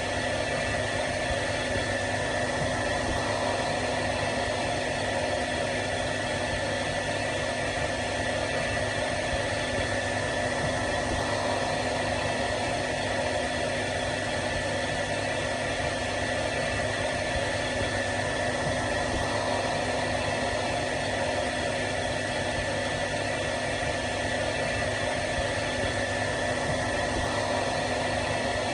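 Hair dryer running steadily: an even rush of blown air over a constant motor hum with a fixed high whine.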